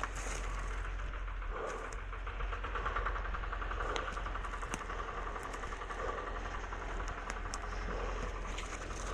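An engine idling steadily, with a fast even pulse and light sharp clicks now and then.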